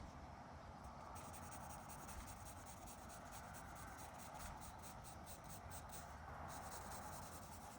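Pen scratching across paper in quick, short sketching strokes, faint, over a steady hum of distant road traffic.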